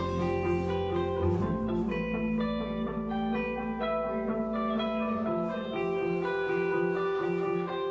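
Post-rock band playing live: guitar notes ringing and held, over low sustained notes that change about a second and a half in and again around five seconds.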